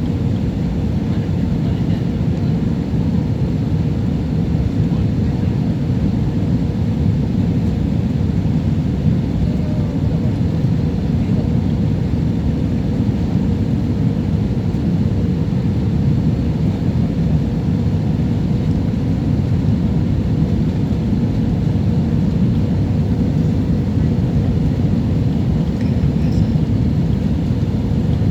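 Jet airliner cabin noise on approach: a steady low rumble of engines and airflow with a faint constant tone.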